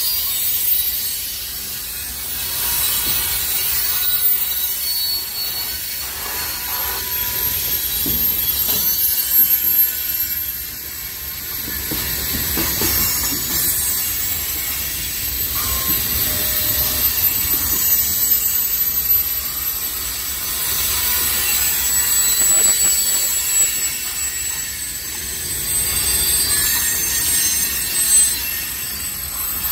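Freight cars of a CSX mixed freight, covered hoppers and tank cars, rolling steadily past at close range: a continuous rumble of steel wheels on rail with a thin, high-pitched wheel squeal running over it.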